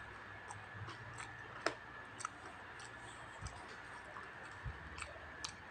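Close-miked chewing: a person eating makes scattered sharp mouth clicks, the loudest about a third of the way in, over a faint steady hum.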